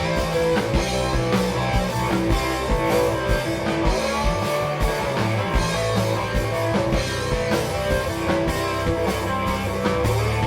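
Rock band playing live: guitar, bass and drum kit, with the guitar bending notes upward a few times.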